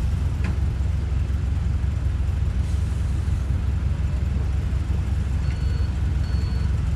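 Heavy diesel engine of earthmoving equipment running steadily, a deep continuous rumble.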